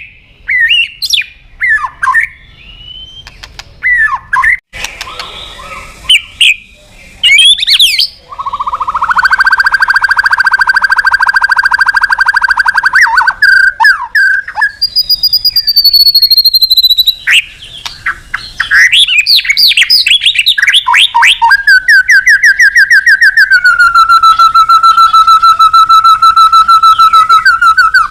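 White-rumped shama singing a loud, varied challenge song. It opens with short sharp notes and moves into long, fast rattling trills, with a falling whistle in the middle.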